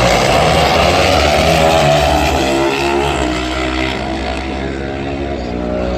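Motorcycle engine running, its revs climbing a little over the first second or two, then easing off to a steadier, lower speed.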